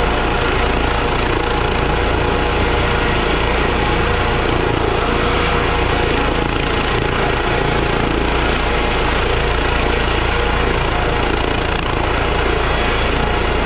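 Medical helicopter running steadily: the rotor noise and the turbine engine's hum held loud and even throughout.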